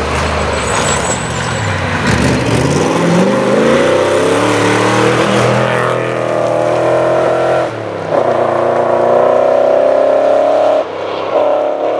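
Ford Falcon V8 rally car passing at full throttle and pulling away. The engine note climbs in pitch as it accelerates and then holds high. It breaks off briefly twice in the second half, as at gear changes.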